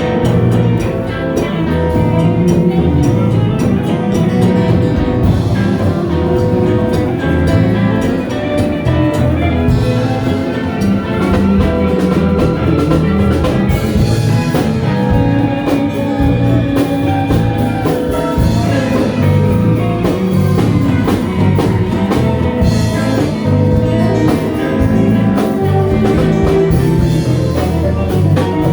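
A band playing music with drums and several pitched instruments, an instrumental stretch with no singing.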